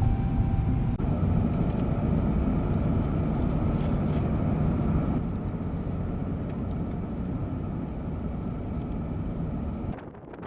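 Steady rumble of a car driving, road and engine noise with a faint steady whine, cutting off abruptly near the end.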